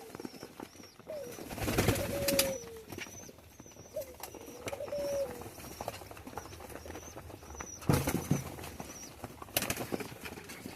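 Pigeons cooing, with a few short bursts of wing flapping. A run of short, high, repeated cheeps goes on behind them.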